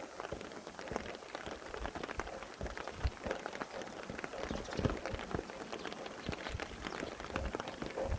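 Rain falling, with many close drops tapping irregularly on a surface over a steady hiss of rainfall.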